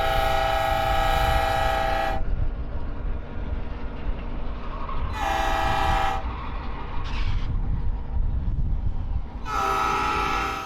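Diesel locomotive air horn sounding a multi-note chord in three blasts: a long one that ends about two seconds in, a short one around five seconds, and another long one near the end. This long–short–long run matches the close of a grade-crossing signal. The locomotive's engine and the train's rumble are heard underneath.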